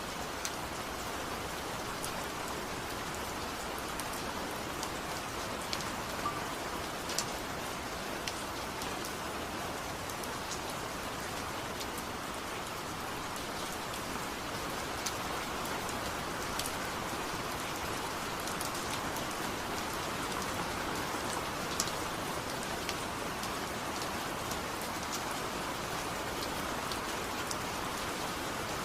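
Steady rain falling, with scattered sharp ticks of drops.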